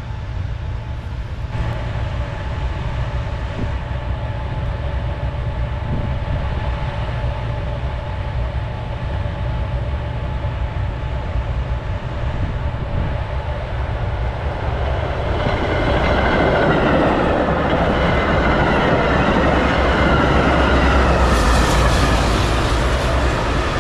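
Metra diesel-hauled commuter train on the BNSF main line approaching and passing, growing loud about two-thirds of the way through. A steady low roar from gas-fired railroad switch heaters runs underneath.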